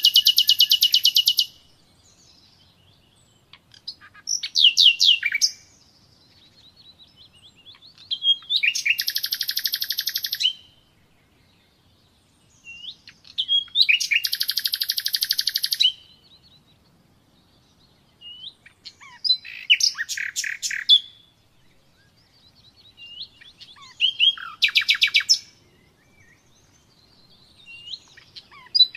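Common nightingale singing: phrases of rapidly repeated high notes and trills, about one every four to five seconds, with short silent pauses between them.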